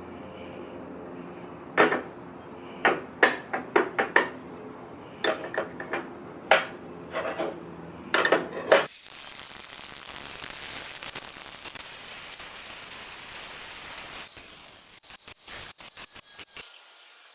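Metal parts and tools clanking and tapping in irregular sharp knocks. A steady high hiss then runs for about three seconds, followed by a few lighter clicks.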